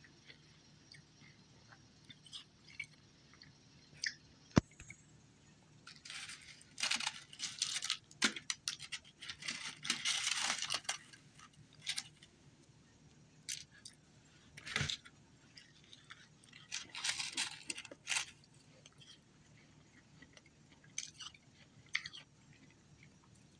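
A person biting and chewing ice with crisp crunches, in irregular bursts. The crunching is densest from about six to eleven seconds in, then comes in shorter bouts, with one sharp click a little before that.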